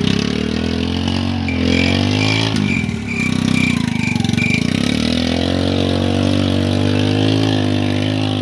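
Tractor engine running, its pitch dipping and rising about a second in, then holding steady.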